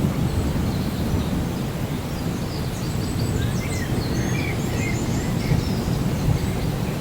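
Rainforest ambience: a steady low rumble underlies it throughout, with a few short bird chirps and whistles in the middle.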